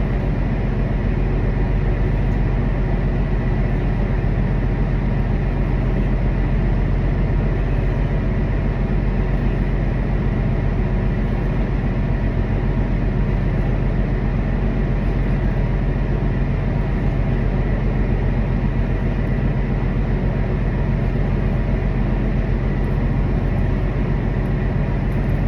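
Steady machinery drone: a constant low rumble with an even hum that holds unchanged throughout, like engines or generators running.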